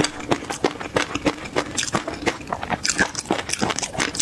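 Close-miked chewing of a mouthful of chili peanut sauce with garlic: many small crisp crunches, irregular and several a second.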